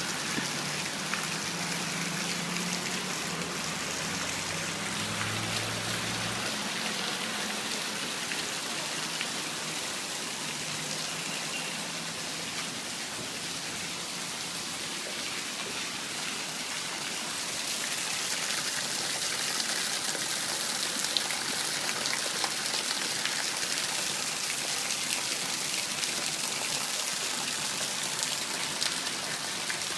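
Steady rain pattering and hissing, growing a little heavier about two-thirds of the way through.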